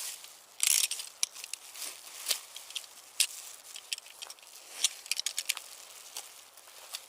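Irregular small clicks and light crackles, with a louder brief rustle a little over half a second in.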